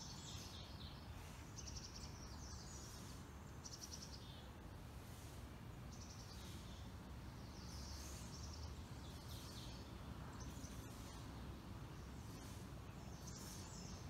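Several songbirds chirping and singing short phrases, some as rapid trills, over a steady low background rumble.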